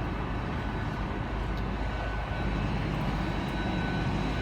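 Diesel train engines running steadily at the station: a continuous low rumble with a faint steady whine above it.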